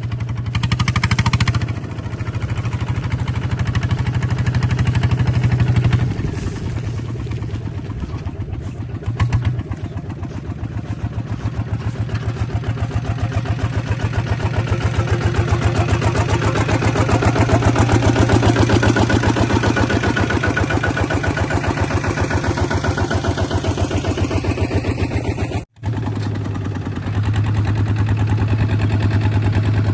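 Kubota bulldozer's engine running continuously with a steady rapid pulse, its note rising and swelling for several seconds midway as if under load, then settling back. The sound cuts out for an instant about 26 seconds in and resumes.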